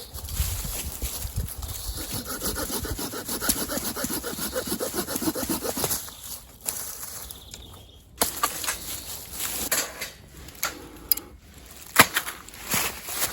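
Dry deadwood being cut with a hand saw, a steady run of rasping strokes for about six seconds. After a pause come several sharp cracks and snaps of wood breaking, the loudest near the end.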